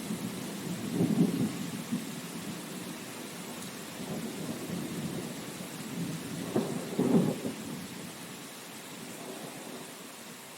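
Steady rain hiss with low rolls of thunder, swelling about a second in and again around seven seconds, then dying away as the sound fades down.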